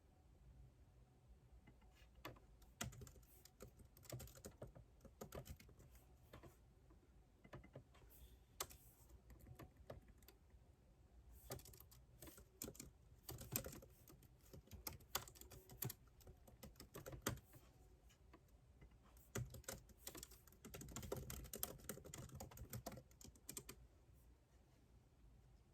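Typing on a computer keyboard: quiet runs of key clicks in bursts, separated by short pauses.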